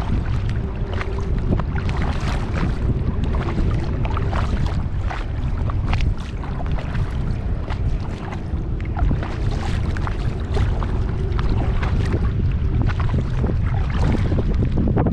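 Kayak paddle strokes splashing and dripping water in quick irregular spatters, over a steady low rumble of wind on the microphone.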